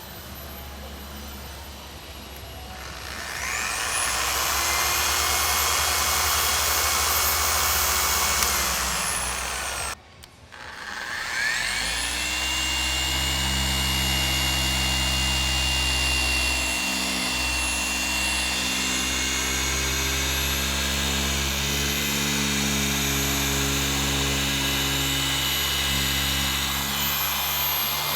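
Electric car polisher spinning up with a rising whine, running steadily, then winding down and stopping about ten seconds in. It starts again a second or so later and runs steadily through the rest.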